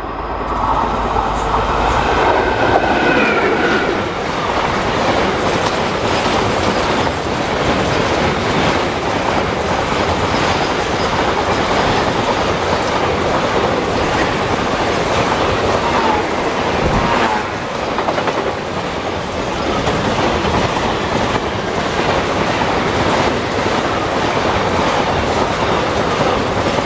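Train running along the track: a steady rumble with the clickety-clack of wheels over rail joints, and a brief high-pitched tone about two seconds in. The sound cuts off abruptly at the end.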